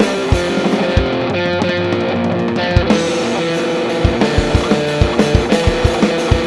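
Heavily distorted electric guitar, a Gibson SG through a Stone Deaf Warp Drive high-gain overdrive pedal, playing sustained power chords over a drum kit. Kick-drum hits are sparse at first and come in a fast, even run from about four seconds in.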